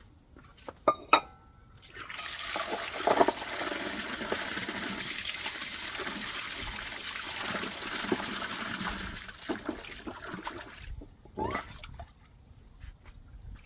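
Water running in a steady stream for about nine seconds, starting about two seconds in and stopping near the end, with a few sharp knocks before it begins.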